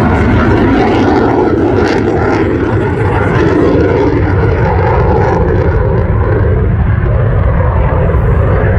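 CF-18 Hornet fighter jet flying by, a loud steady roar of jet engine noise whose high hiss fades in the second half.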